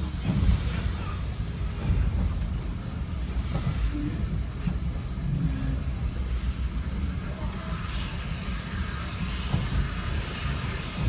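Steam-hauled heritage passenger train on the move, heard at a carriage window: a steady low rumble of the carriage running on the track.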